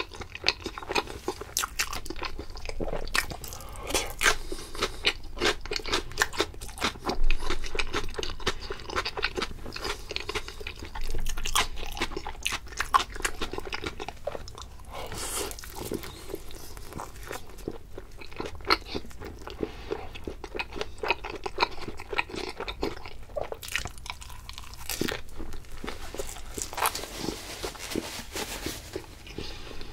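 Close-miked eating: a person chewing food with frequent crisp crunching bites.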